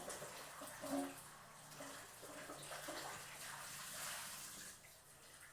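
Peeled potatoes being washed by hand in water: a steady splashing and swishing, with a few light knocks in the first second. It fades out near the end.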